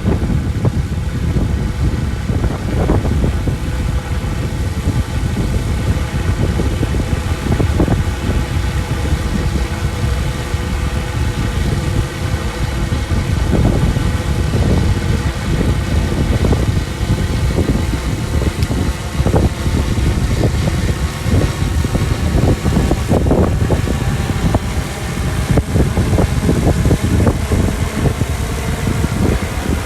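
Motor of an aircraft on a high-speed test flight, running steadily: a droning tone with many overtones that waver slowly, under a loud low rumble of wind on the microphone.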